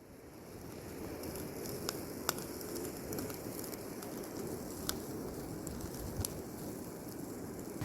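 Small campfire burning under a grill of frying Spam slices, a steady low rush with a few sharp crackling pops.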